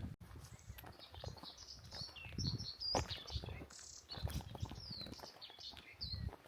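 Small birds singing, a string of quick high chirps and several short falling whistles, over a walker's regular footsteps.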